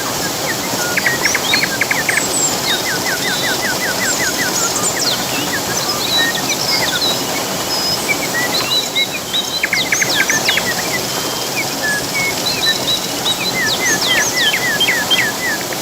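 Several songbirds chirping and singing, some in quick runs of falling notes, over the steady rush of flowing water.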